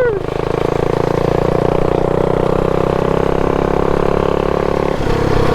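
Mini bike's small single-cylinder engine running steadily at a constant speed, its note shifting about five seconds in.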